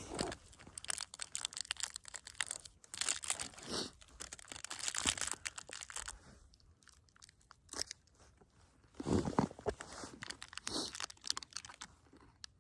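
Footsteps crunching in fresh snow, a dense run of crunches for about six seconds, then sparser ones with another short run near the end.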